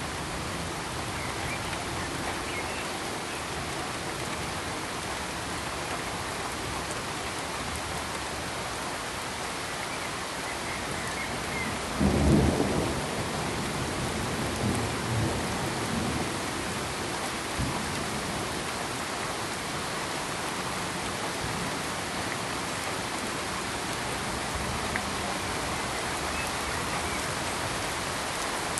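Steady rain, with a roll of thunder about twelve seconds in that rumbles on and fades over several seconds.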